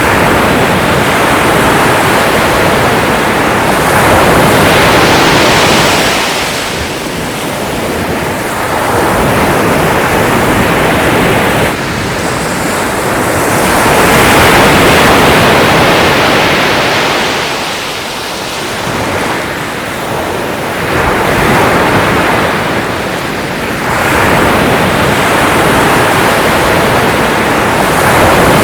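Sea waves breaking and washing in, the surf rising and falling in swells every few seconds.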